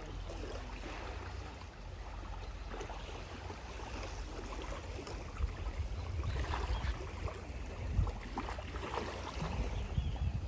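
Wind rumbling on the microphone over small waves washing against the shore.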